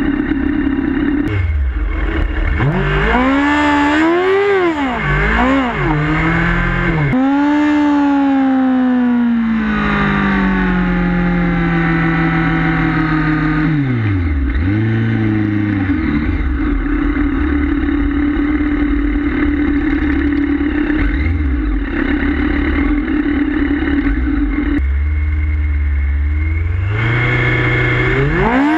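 Kawasaki ZX-10R sport bike's inline-four engine, revved hard several times, held at high revs during a smoky rear-tyre burnout and then slowly winding down. It settles to a steady run and climbs sharply in revs near the end.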